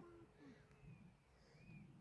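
Faint birds calling: short, low notes that bend in pitch like cooing, with a few higher chirps between them.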